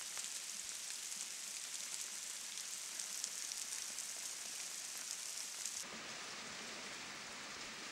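Steady hiss of rain falling. About six seconds in the sound changes abruptly to a fuller, lower wash of water.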